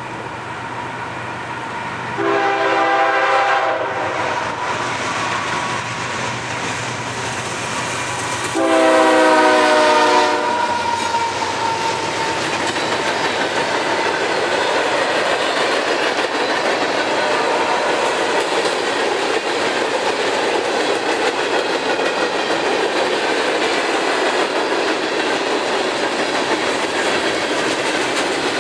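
A CSX freight train led by GE locomotives sounds its chord horn twice: a short blast about two seconds in and a longer, louder one near nine seconds. The train then passes with a steady rumble of engines and wheels and the clickety-clack of wheels on rail joints.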